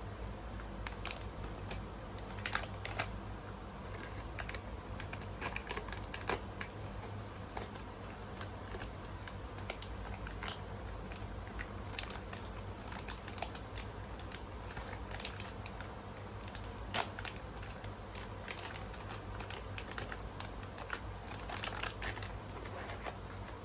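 Eating sounds: scattered small clicks and taps, irregular and sharp, over a steady low hum.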